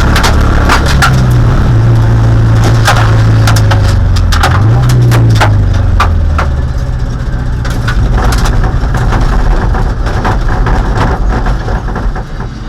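In-car sound of a 1.6-liter Mazda Miata race engine running at a steady pitch, which wavers and then fades away about six seconds in. Loud sharp clicking and cracking rattles run throughout.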